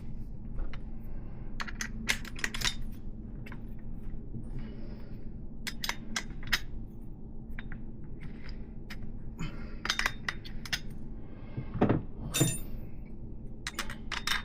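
Irregular metal clinks and clicks of a 17 mm wrench working the axle nuts on a BMX fork's dropouts, as the nuts are tightened onto the hub axle.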